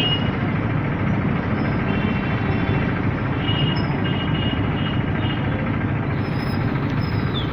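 Road traffic: a steady low rumble of vehicle engines running, with faint high-pitched tones coming and going.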